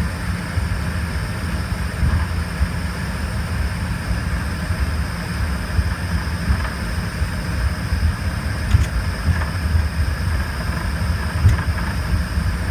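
Cabin noise inside an Embraer RJ145 regional jet with its two rear-mounted turbofans running: a steady low rumble with a faint high engine whine, the rumble jostling unevenly as the airframe shakes.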